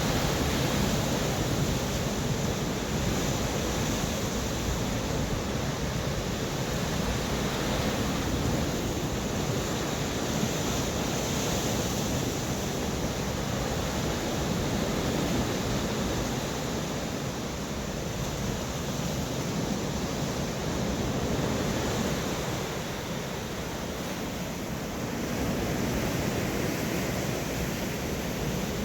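Storm surf pounding the shore, with strong wind buffeting the microphone. The noise swells and eases every few seconds as the waves come in.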